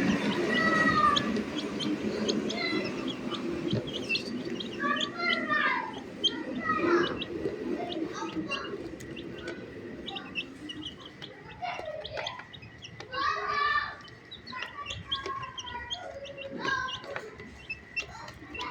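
Domestic chicks peeping, with many short chirps and falling calls overlapping throughout, and a low murmur under them that fades over the first few seconds.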